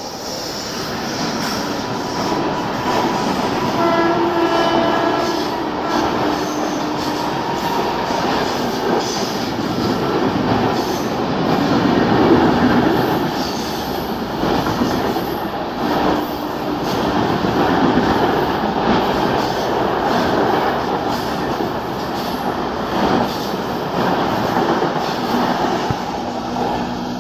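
Indian Railways express train, hauled by an electric locomotive, passing at speed with a steady rumble and clatter of coach wheels on the rails. The locomotive's horn sounds for a couple of seconds about four seconds in, and a fainter horn-like tone comes again about halfway through.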